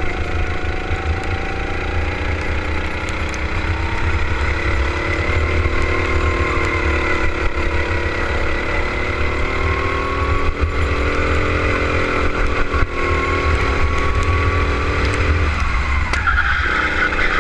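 Go-kart engine running at racing speed, its pitch climbing and falling as it is driven through the corners, over a steady heavy low rumble. Near the end the revs drop sharply, then pick up again.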